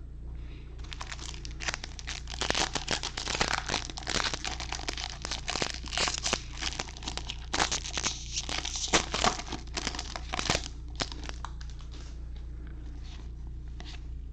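Plastic foil wrapper of a trading card pack being torn open and crinkled: dense crackling that starts about a second in, is heaviest through the middle, and thins out near the end.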